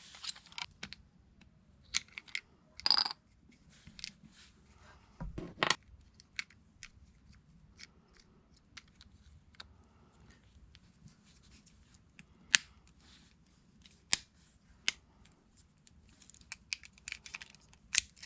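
Scattered sharp clicks and short scraping and rustling sounds of things being handled, spaced irregularly, with a few louder clicks among them.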